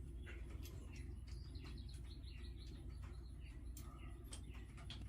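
Faint bird chirping: a quick run of short chirps lasting about a second and a half, over a low steady hum, with a few light clicks.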